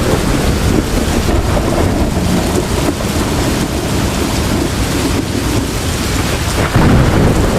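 Heavy rain falling steadily under a low, rolling thunder rumble, which swells louder near the end.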